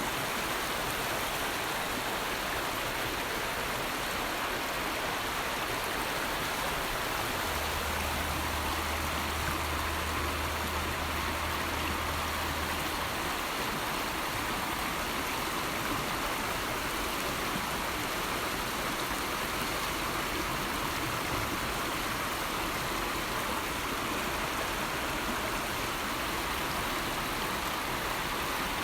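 River water flowing steadily, an even rushing sound with no breaks. A faint low hum comes in for a few seconds near the middle.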